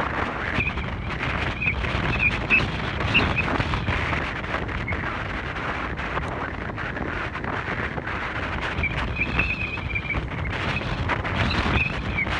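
Wind buffeting the microphone on a moving motorcycle, over the bike's engine and road noise. A few short high-pitched squeaks cut through now and then.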